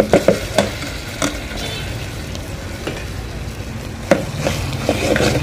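Spice paste frying in hot oil in a metal pan, a steady sizzle, with a metal spoon knocking and scraping against the pan near the start and again about four seconds in.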